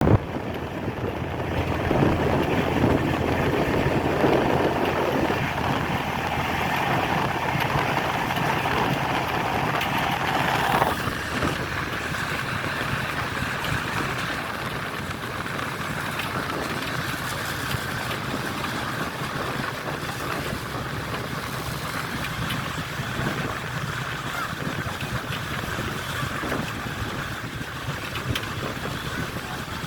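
Passenger train running, a steady rumble and rush of wheel and wind noise; it drops a little about eleven seconds in and carries on evenly.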